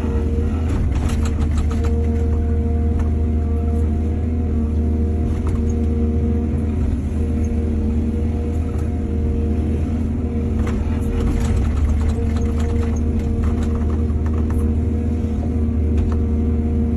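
Heavy diesel excavator engine running steadily with a deep drone, with bursts of clattering and knocking about a second in and again from about ten to fourteen seconds in.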